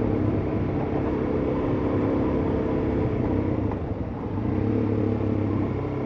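Suzuki DR-Z400S single-cylinder four-stroke engine running steadily under way, easing off briefly about four seconds in and picking up again.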